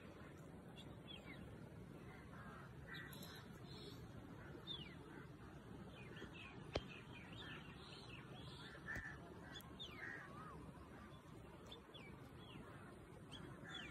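Faint birdsong: many short chirps and whistled notes, some sliding in pitch, scattered throughout over a low steady background hiss. A single sharp click, the loudest sound, comes about seven seconds in.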